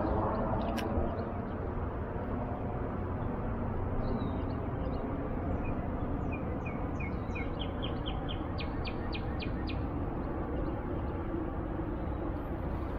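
A songbird singing a series of short high notes that speed up into a quick run of repeated notes, about five a second, over a steady low outdoor rumble.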